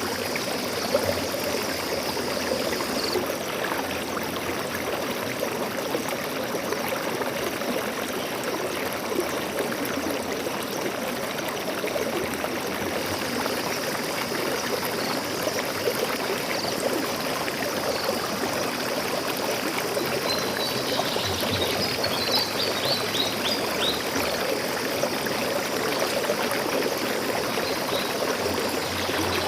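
A stream flowing steadily. About two-thirds of the way through, a bird gives a quick run of short high chirps over the water.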